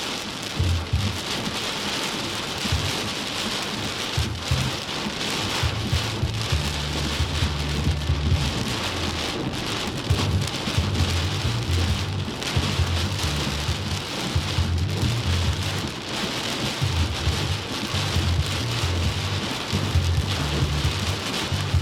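Heavy rain pouring down in a rainstorm: a steady loud hiss with many small sharp hits, and an irregular low rumble coming and going through much of it.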